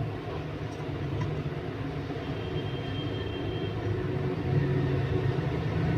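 Steady low background rumble, with a faint high-pitched tone that lasts about a second and a half, a little over two seconds in.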